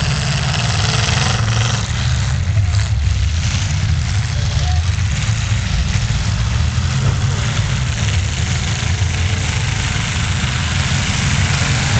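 Several full-size pickup trucks' engines running together in a demolition derby, a steady heavy low rumble, with a few faint knocks about two to three seconds in.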